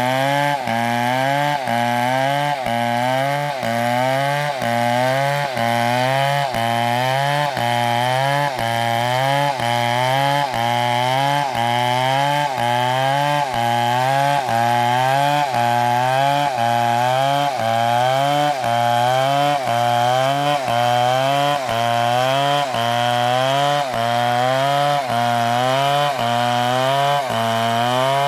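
Stihl MS720 chainsaw running under load while cutting wood. The engine note dips and recovers in a steady cycle about once a second.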